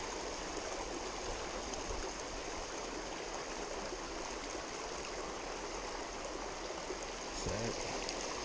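Steady rushing of a small creek flowing over rocks.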